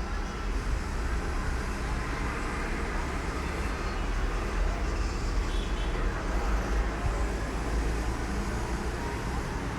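Steady background noise of road traffic, a low rumble with a hiss over it.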